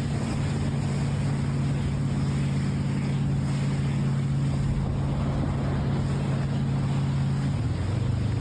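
An engine running steadily under a hiss of wind or rushing air, its pitch dropping a step near the end.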